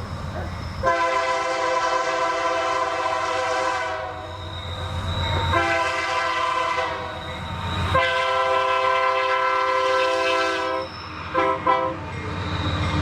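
Freight train diesel locomotive sounding its multi-tone air horn: three long blasts, then two short toots, over the steady low rumble of the locomotive.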